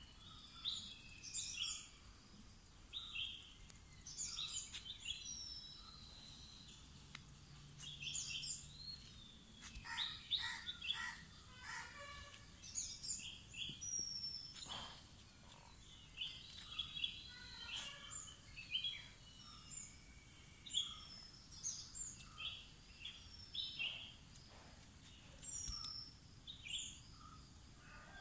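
Several birds chirping and calling in short, varied notes, over a continuous high-pitched pulsing buzz.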